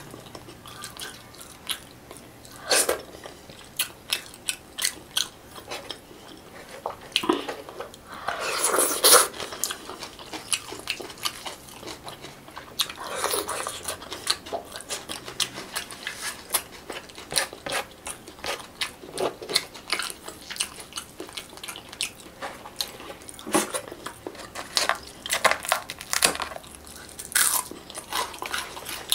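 Close-miked eating with the hands: chewing and crunching crispy fried fish, with many irregular mouth clicks and lip smacks. A few longer, louder mouth sounds come about nine and thirteen seconds in.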